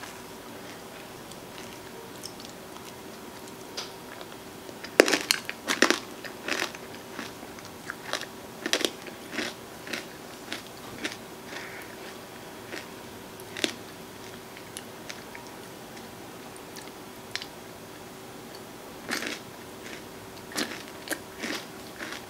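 Close-miked chewing of ice cream with crunchy toppings: irregular sharp crunches, loudest and densest about five to six seconds in, sparser through the middle and picking up again near the end, over a faint steady hum.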